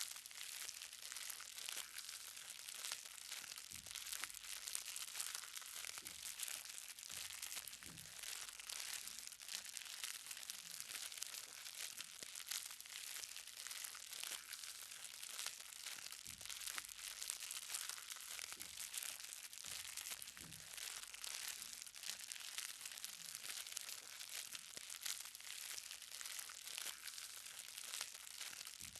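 Light rain: raindrops pattering on the ground in a dense, steady crackle, with a few soft low thuds from drops landing here and there.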